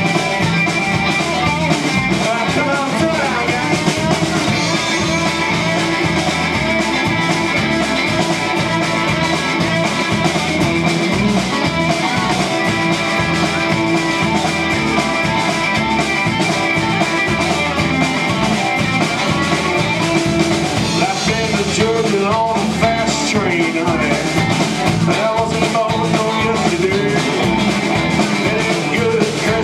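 Live country-rock band playing at a steady beat, electric guitar over a drum kit.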